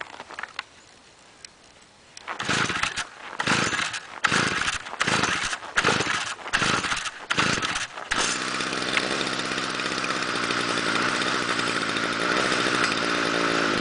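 Stihl FS-45 two-stroke string trimmer engine cold-starting in freezing weather. A couple of seconds in it fires in a string of short sputtering bursts. About eight seconds in it catches and runs steadily.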